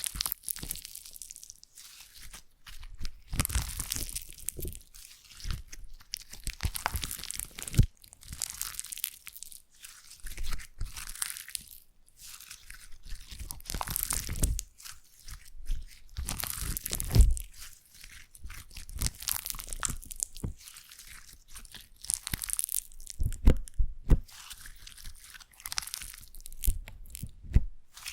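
Slime being squeezed and worked by hand, crackling and crunching in irregular bursts every second or two, with soft low squishes among them.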